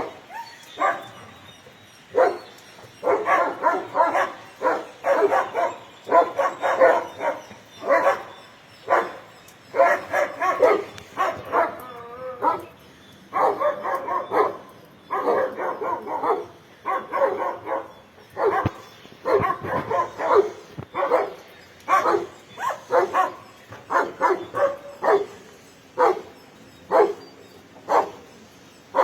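Dog barking over and over, in quick runs of short barks with brief pauses between them.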